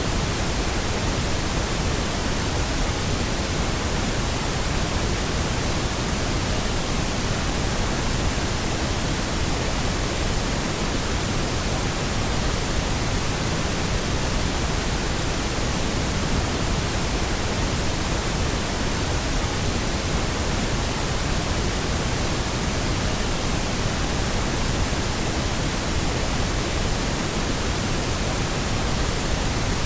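Steady pink noise: an even, unchanging hiss across all pitches, stronger in the lows than white noise.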